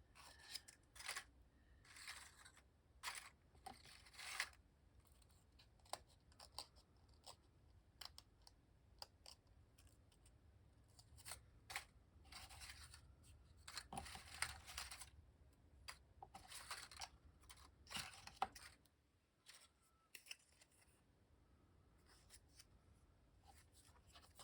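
Sheets of paper being sorted and handled: faint, irregular rustles and soft taps, quieter for the last few seconds.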